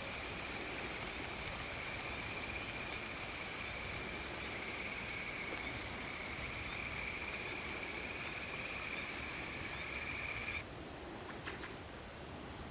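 Crickets trilling steadily at a high pitch over an even hiss of rain and wind in the trees. About ten and a half seconds in, the trilling and the upper hiss cut off suddenly, leaving a softer, lower hiss with one faint brief chirp.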